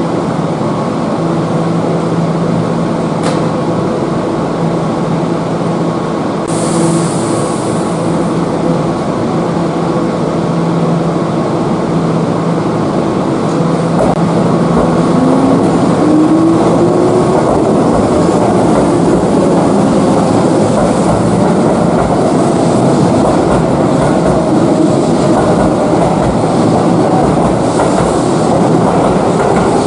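Electric train running on rails, with wheel clatter and rumble throughout. A motor whine rises in pitch from about halfway through as the train picks up speed.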